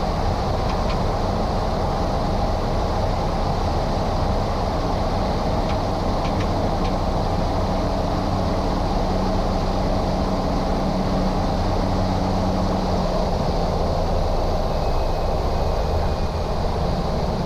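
Cabin noise of a Cessna 208 Caravan: its Pratt & Whitney PT6A turboprop engine and propeller drone steadily, with a low hum and a few faint ticks.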